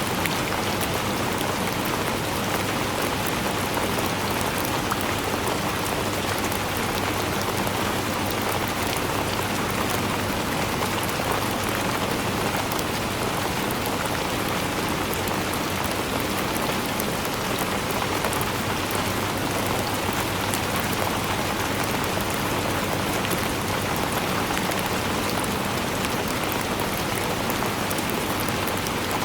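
Steady rainfall, an even hiss of rain with fine drop patter throughout.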